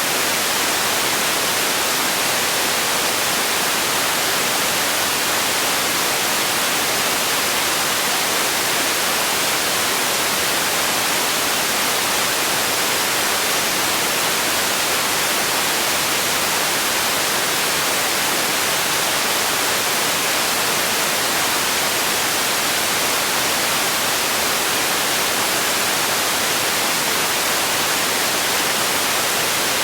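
Steady white noise: an even, unbroken hiss that stays the same throughout.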